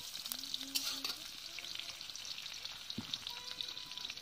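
Food frying in hot oil in a steel wok (kadai), a steady sizzle and crackle with a few sharp clicks.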